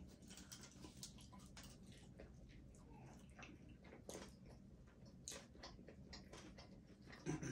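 Faint chewing and mouth sounds of a person eating, with irregular small clicks and smacks and a slightly louder one near the end.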